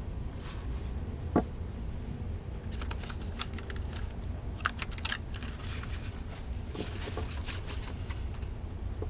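A deck of tarot cards being shuffled by hand: three clusters of quick crisp rustles and clicks, about 3, 5 and 7 seconds in, with a single knock about a second and a half in. A steady low hum runs underneath.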